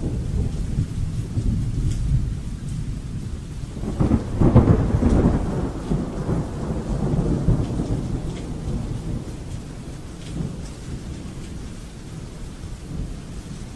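Thunderstorm: rolling thunder over steady rain, swelling to a louder thunderclap about four seconds in and then rumbling away, with the rain hiss continuing.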